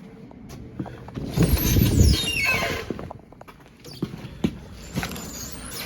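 A high squeal that glides down in pitch about a second and a half in, over a low rumble, with a few scattered knocks.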